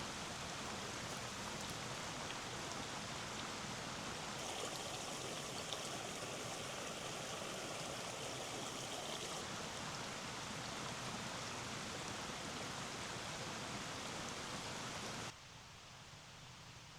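Steady rushing of a forest stream, an even wash of water noise. It cuts off abruptly near the end, leaving only a faint hiss.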